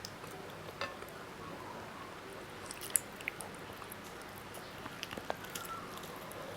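A person chewing and biting food close to the microphone, with scattered wet clicks and a few sharp crisp crunches, the loudest about three seconds in and a cluster near five seconds.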